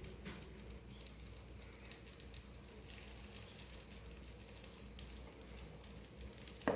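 Batter and melted butter sizzling faintly in a small frying pan as pancake batter is ladled in, with faint crackling throughout. A brief knock sounds near the end.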